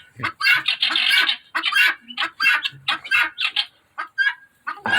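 Domestic fowl calling, a quick run of short calls at about three a second, with a brief lull about four seconds in.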